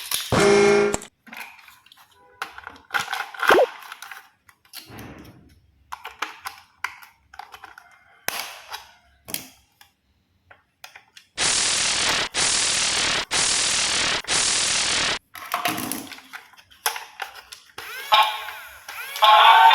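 Scattered clicks and knocks of plastic toy trains and their packaging being handled. About halfway through come four even bursts of hiss, each about a second long. A short pitched tone sounds right at the start.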